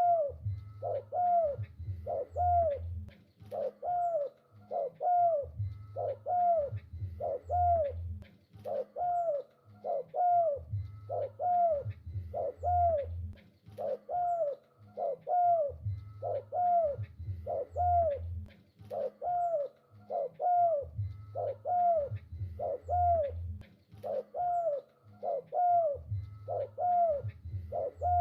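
Spotted dove (tekukur) cooing over and over in a steady, even rhythm, with an arched note a little more often than once a second. Deeper low notes come in groups about every five seconds.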